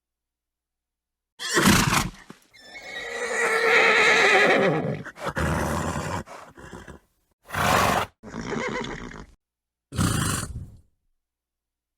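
Horse sounds: a horse neighs once, a long wavering whinny, with short noisy snorts and breaths before and after it, each separated by a dead silent gap.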